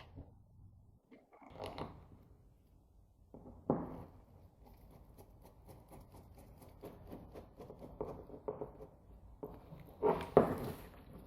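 Intermittent knocks and light clatter of hard objects being handled, with a sharp knock about four seconds in and a louder pair of knocks near the end.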